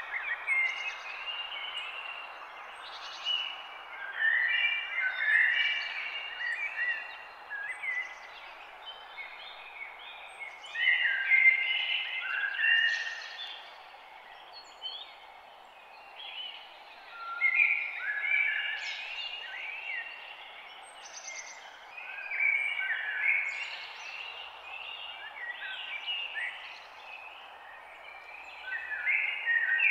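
Dawn chorus of several songbirds singing at once: overlapping chirps and warbled phrases that swell and ease every few seconds, over a steady outdoor hiss.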